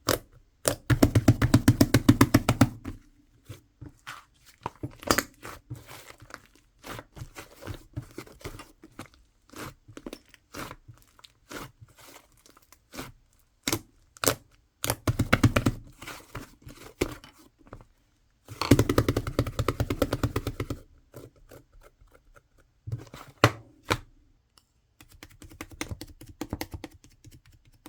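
Slime being pressed, stretched and squished by hand, giving scattered wet clicks and pops. Three longer bursts of rapid crackling come about a second in, around the middle, and about two-thirds of the way through.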